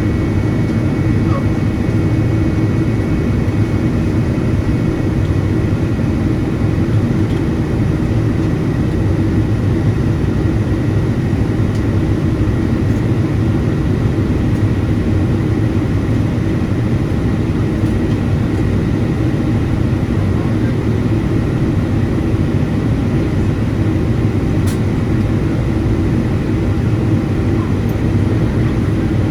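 Steady in-flight cabin noise of a Boeing 777-200ER with GE90-92B engines: a constant rumble of engine and airflow with a faint steady whine on top.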